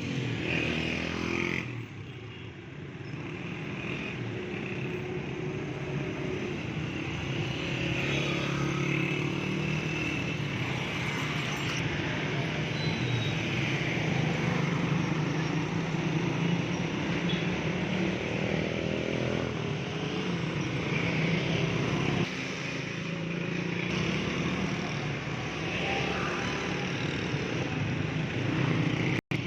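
Road traffic, with motorcycle and car engines running past continuously.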